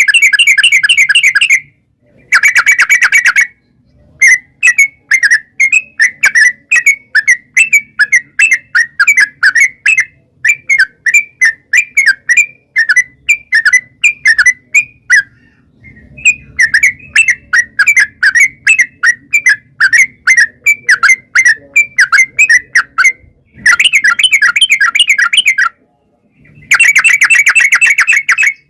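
Yellow-vented bulbul (trucukan) singing. Long runs of quick chattering notes come about four a second, and dense, rapid trills come near the start and again near the end.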